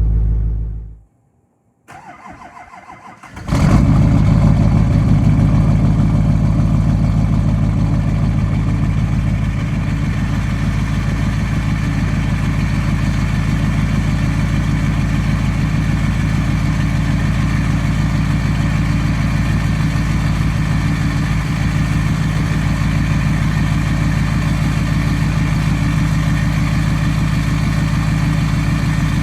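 6.6 L LBZ Duramax V8 diesel with a 5-inch straight pipe on a cold start well below freezing: the starter cranks briefly, the engine catches about three and a half seconds in, runs loudest for the first few seconds, then settles into a loud, steady idle.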